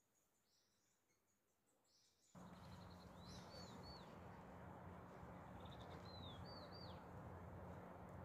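Faint bird calls: twice, a quick ticking trill followed by a few short falling chirps. About two seconds in, a steady outdoor background hiss with a low hum cuts in abruptly under them.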